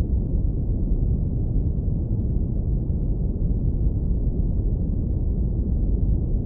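Synthetic brown noise low-pass filtered to about 20–180 Hz: a steady, deep rumble with no events or changes.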